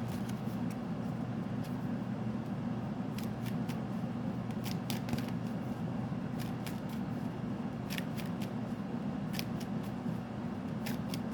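Tarot cards being shuffled and handled by hand: scattered light clicks and snaps of the cards at irregular intervals over a steady low hum.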